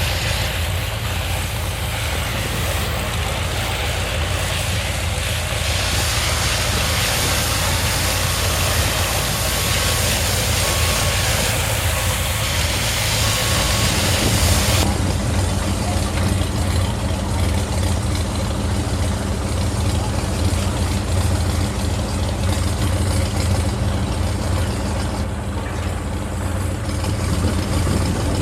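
A heavy truck engine runs steadily. Over it, a loud hiss of water spraying from a hose stops abruptly about halfway through.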